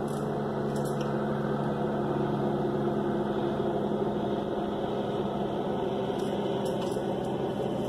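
Steady engine drone with several held low tones, unchanging throughout.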